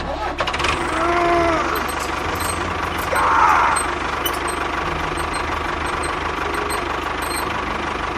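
Small engine of a miniature construction machine running steadily with a knocking rumble. A short whine rises and falls about a second in, and the sound gets louder briefly a little after three seconds.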